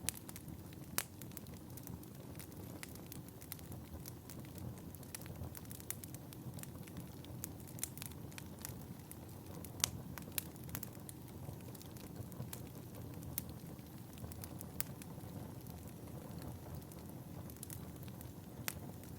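Wood fire in a fireplace crackling, with frequent irregular sharp pops over a steady low rush of burning. One of the louder pops comes about a second in, and the loudest comes about halfway through.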